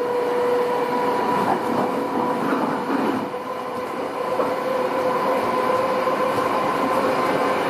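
CityRail electric train running at speed, heard from on board: a steady rush of wheel and track noise with a steady two-note whine over it.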